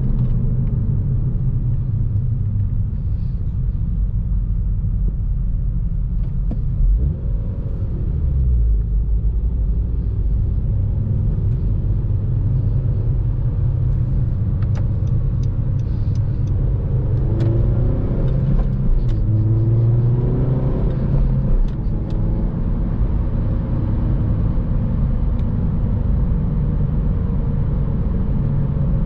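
2014 Honda Civic Si's 2.4-litre four-cylinder engine and road noise while driving, a steady low rumble. The level dips briefly about a quarter of the way in, and the engine note rises and falls a few times past the middle.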